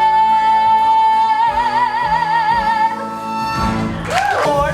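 Female musical-theatre singer holding the long final note of a show tune over instrumental accompaniment, steady at first and then with a wide vibrato from about a second and a half in. The note ends about three seconds in, and a brief sliding vocal sound comes near the end.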